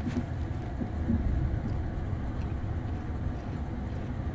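Steady low rumble of a moving passenger train heard from on board, with a few faint knocks.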